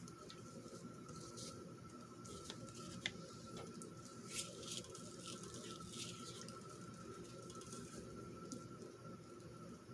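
Faint rustling and light ticks of paper and craft pieces being handled, over a faint steady high whine.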